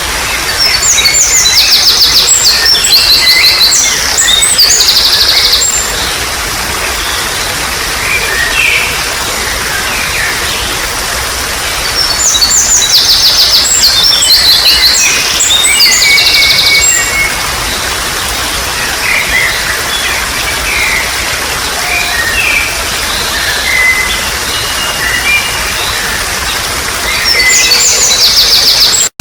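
Water trickling steadily under birds singing: loud bursts of fast, rapidly repeated song near the start, in the middle and again near the end, with scattered short chirps in between.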